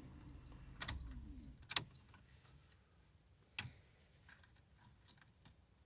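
A few sharp clicks and knocks from handling objects, the clearest near one second, just before two seconds and about three and a half seconds in, followed by fainter scattered ticks, over a faint low hum that fades after about two seconds.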